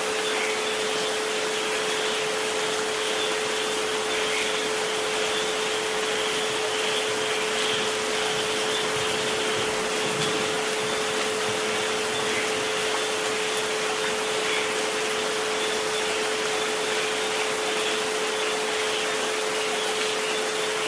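Steady rain hiss with a continuous 432 Hz tone and a fainter 528 Hz tone held underneath, unchanging throughout.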